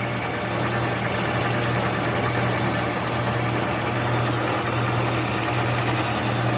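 Metal lathe running steadily with a low motor hum while a file is worked against the spinning workpiece. The motor hum cuts off at the very end.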